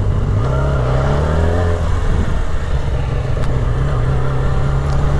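Yamaha R6 inline-four motorcycle engine running, its note climbing briefly about half a second in, then holding steady.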